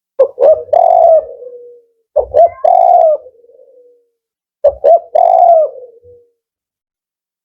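Male spotted dove (tekukur) giving its four-note 'kuk 4' coo three times, about two seconds apart. Each phrase is three quick short notes and then a longer final coo that trails away.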